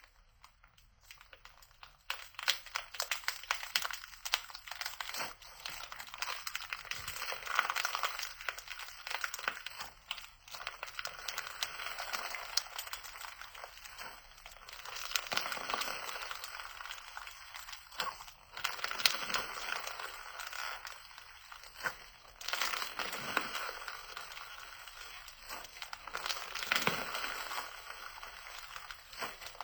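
Slime being squeezed and pressed by hand, giving dense crackling and popping clicks that swell and ease off in waves, starting about two seconds in.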